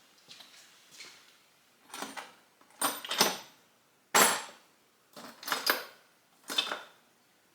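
Small metal drill bits and hardware clinking and rattling as they are handled and sorted, in several short separate clatters.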